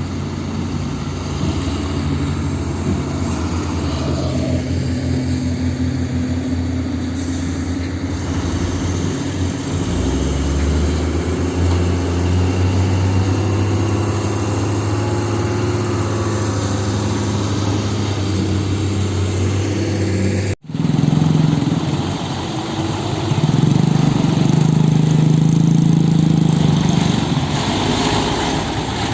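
Heavy-vehicle diesel engine running steadily at low revs. About two-thirds of the way through it cuts out for an instant and comes back, a little louder afterwards.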